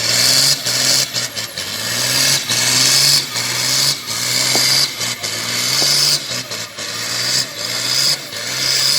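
Vintage tractor engine labouring under full load as it drags a weight-transfer pulling sled, its note swelling and dipping over and over.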